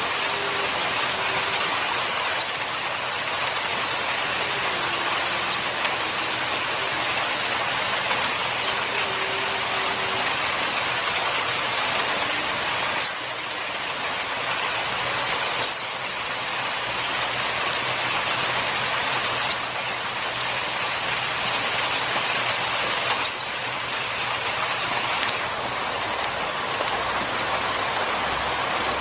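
Steady rain-like hiss, with a brief high tick every three seconds or so.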